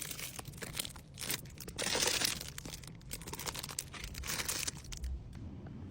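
Plastic packaging crinkling and rustling as small items are handled and packed, with a few light clicks; loudest about two seconds in.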